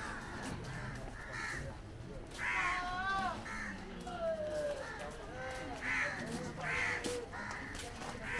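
Birds calling several times over faint background voices.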